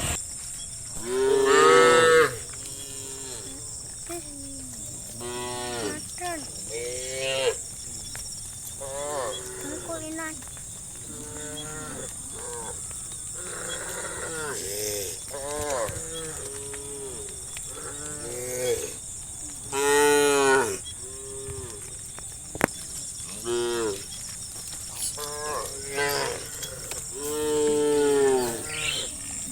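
A herd of cattle mooing, call after call from several animals at different pitches. The loudest, longest moos come about two seconds in, around twenty seconds in, and near the end.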